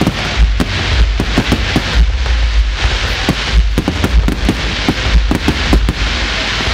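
Aerial fireworks going off in quick succession: loud bangs and crackling, several a second and irregular, over a deep rumble of booms.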